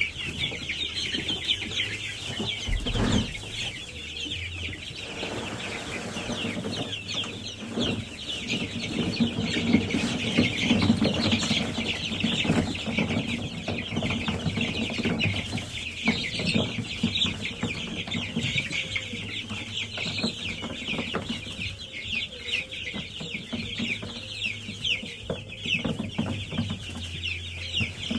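A flock of two-to-three-week-old broiler chicks (Cornish Cross, Freedom Ranger and Bresse) peeping continuously, many high calls overlapping, with occasional knocks and scuffling.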